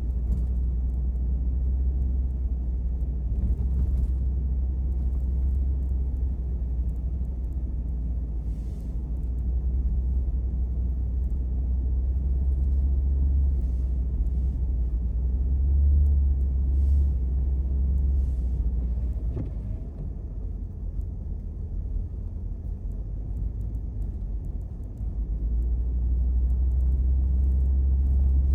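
Steady low rumble of a car driving on a snowy road, heard from inside the cabin; it eases for a few seconds about two-thirds of the way through, then returns.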